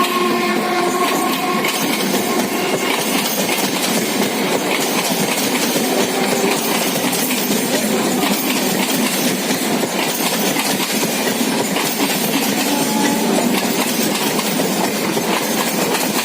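Suburban electric local passenger train (EMU) of Indian Railways running on the track: a steady, loud rumble with wheels clattering over the rails. The last of a horn note fades out in the first second or so.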